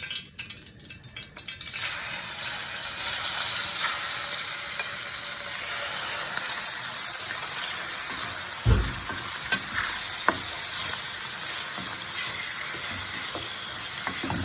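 Chicken pieces frying in hot oil in a pan: a steady sizzle that starts about two seconds in and runs on, with one low knock of the pan near the middle and a couple of sharp utensil clicks just after.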